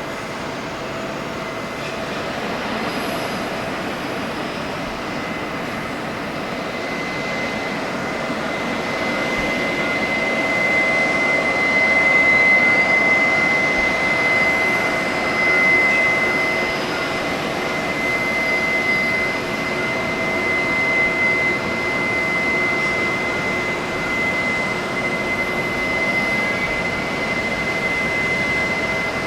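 Airbus A340-500 airliner's jet turbines running during pushback: a steady rushing noise with a thin, steady high-pitched whine over it, swelling slightly about halfway through.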